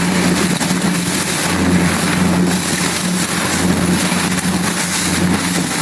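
Motorboat engine running steadily under loud wind rushing over the microphone.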